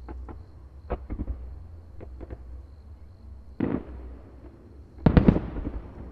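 Fireworks shells bursting in the sky: scattered sharp bangs, a heavier boom with a rolling echo about three and a half seconds in, then a loud rapid cluster of bursts near the end that trails off into echo.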